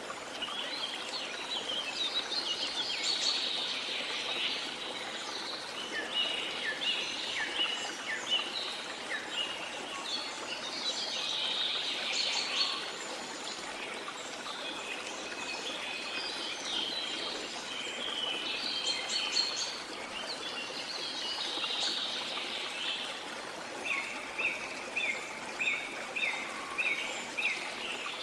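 Several birds chirping and singing over the steady rush of flowing water. Near the end one bird repeats a short note about twice a second.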